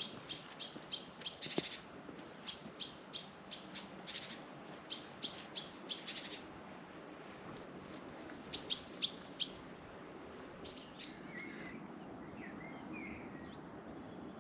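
A songbird singing four short phrases, each a quick run of three to five identical high notes, with a few softer, different chirps from other birds in the last few seconds.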